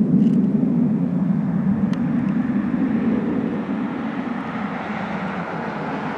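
Airplane engine noise from an aircraft flying past, a steady low drone that slowly eases off.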